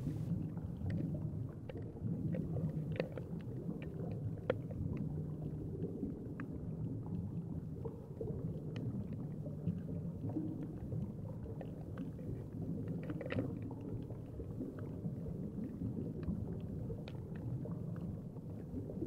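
Underwater sound picked up by an action camera held below the surface: a steady, muffled low rumble of moving water with scattered faint clicks and crackles.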